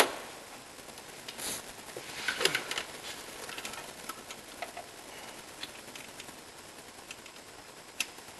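Hand tools and metal parts being handled: a sharp knock at the start, a cluster of clinks and rattles about two to three seconds in, scattered light clicks, and one sharp click near the end.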